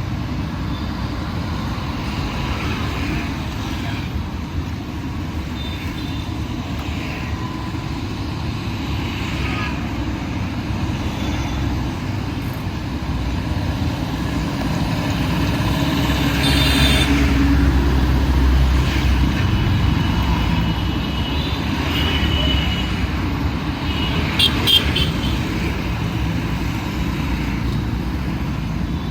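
Busy city road traffic: a steady rumble of passing vehicles, growing louder in the middle as a heavy vehicle goes by, with a few short horn toots near the end.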